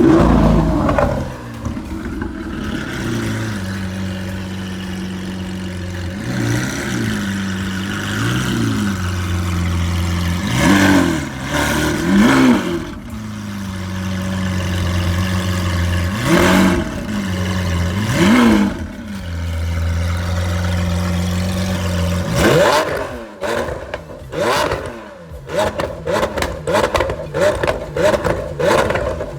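Lamborghini Aventador SVJ's V12 with cat-delete pipes idling, blipped to high revs about seven times. In the last several seconds a rapid string of sharp pops and crackles comes from the exhaust.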